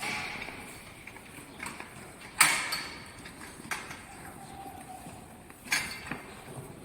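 Cattle at the feed trough, with three sharp knocks a few seconds apart, the loudest about a third of the way in.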